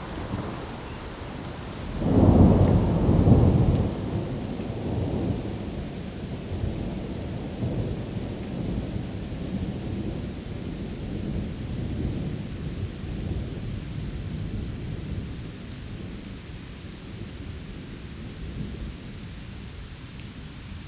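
Rain with thunder: a loud roll of thunder about two seconds in, fading into a low rumble over steady rain.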